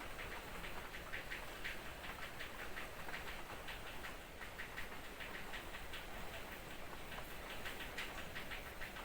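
Light drizzle: a steady soft hiss of fine rain with many rapid, irregular high-pitched ticks.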